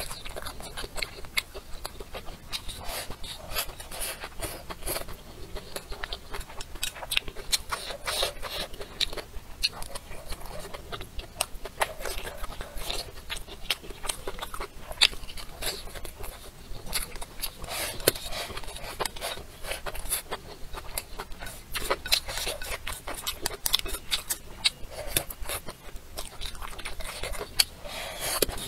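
Close-miked eating: chewing and crunching bites with wet mouth sounds, and chopsticks clicking and scraping against a ceramic bowl as food is shovelled in.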